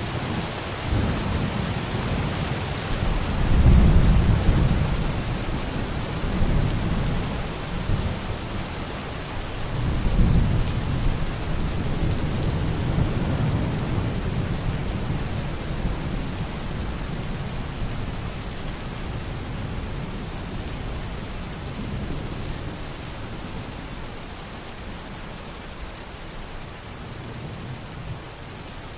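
Steady rain falling, with thunder rumbling through it: the rumbles are loudest about four seconds in and again about ten seconds in, then the storm slowly eases off toward the end.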